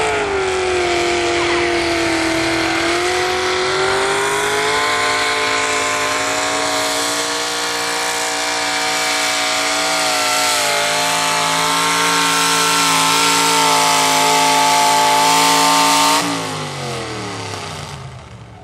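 Pulling truck's engine held at high revs under full load during a pull, its pitch wavering slightly, then winding down sharply near the end as the throttle is let off.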